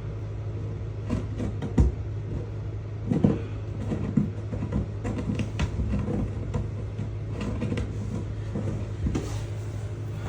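Scattered knocks and clunks of things being handled, the loudest about two and three seconds in, over a steady low hum.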